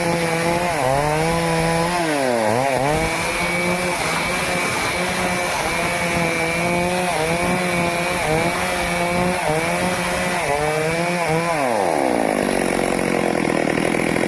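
Stihl chainsaw cutting into teak, the engine pitch dipping again and again as the chain bogs under load, then dropping to idle near the end.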